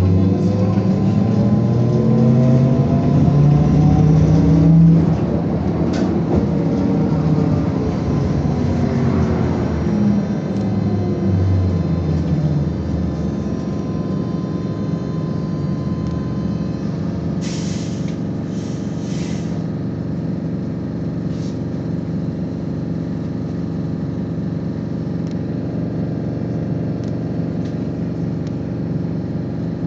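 Trolleybus traction drive running, its electric whine sweeping in pitch over the first ten seconds or so. About two-thirds of the way through come three short hisses of released air, with a fainter one soon after, and then a steady hum.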